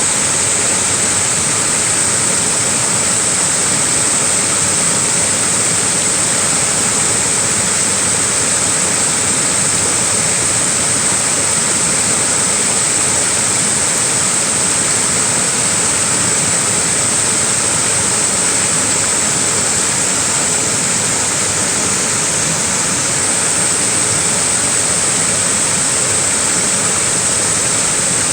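Small waterfall: a steady, even rush of falling water, brightest in its high hiss, with no change in strength.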